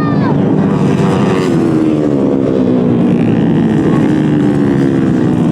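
Several racing motorcycle engines revving at once, their pitch sliding slowly down and up.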